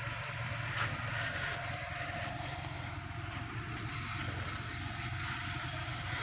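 Honda S660's small turbocharged three-cylinder engine running steadily, a low even hum with no revving.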